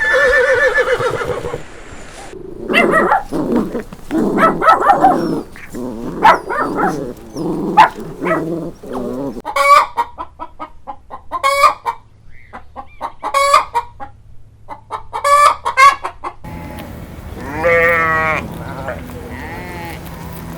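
Chickens clucking and calling in a run of short, repeated calls. Near the end the sound cuts to a longer wavering animal call.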